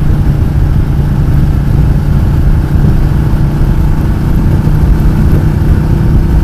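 Ducati Multistrada 1200 S's 90° L-twin engine running at steady, low revs while riding, over a heavy, fluctuating low rumble.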